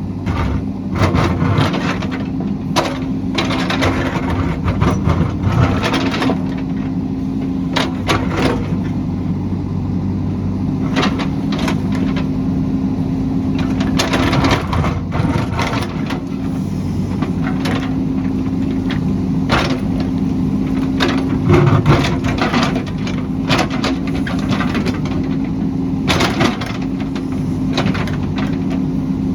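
Heavy construction machine's engine running steadily under load while material cracks and crunches again and again, with sharp breaking sounds at irregular intervals.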